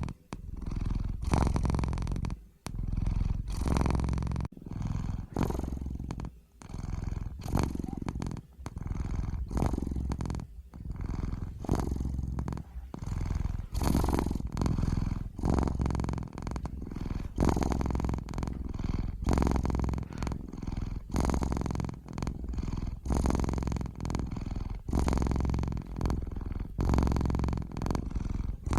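Domestic cat purring close up, a steady low rumble that swells and dips with each breath, about one breath a second.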